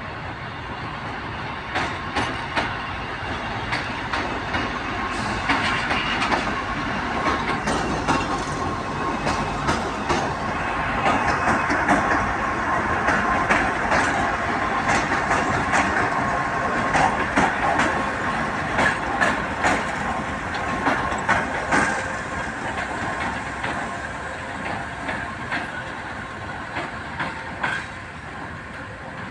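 Two coupled UzTE16M diesel locomotives running past, with a steady engine and rolling noise and sharp wheel clicks over the rail joints. It builds to its loudest about halfway through as they go by, then slowly fades.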